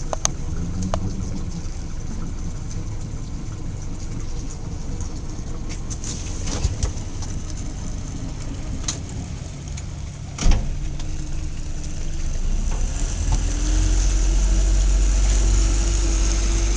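Motorboat engine running steadily at low speed, growing louder about thirteen seconds in. A single sharp knock about ten and a half seconds in is the loudest moment.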